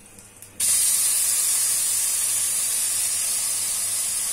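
Ginger-garlic paste dropped into hot oil in a karahi: a sudden loud sizzle starts about half a second in and holds steady.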